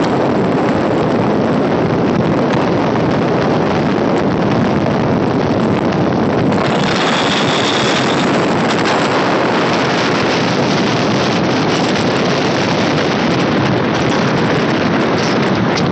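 Electric multiple unit local train running at speed, heard from its open side, with wind rushing over the microphone and the steady clatter and rumble of the coaches; a brief high whine comes in about seven seconds in.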